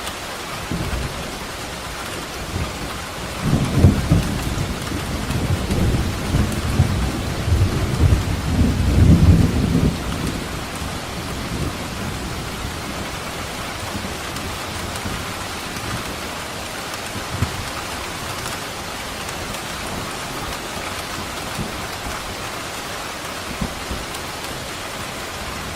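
Steady heavy rain with a rolling rumble of thunder, about three seconds in to about ten seconds in, then rain alone with a few short low thuds.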